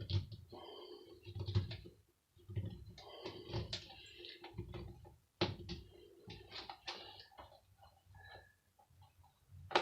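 Screwdriver scraping and prying at a hand air dryer's casing and parts, with repeated bursts of scraping and sharp clicks and knocks of metal and plastic; the sharpest click comes about five and a half seconds in.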